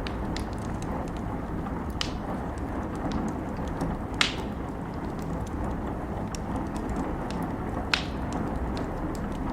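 Steady rain with a fire crackling, many small snaps and three louder pops, about two seconds, four seconds and eight seconds in.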